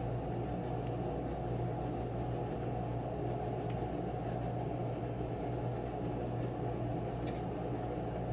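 Steady mechanical hum, like a fan running in a small room, with a few faint ticks.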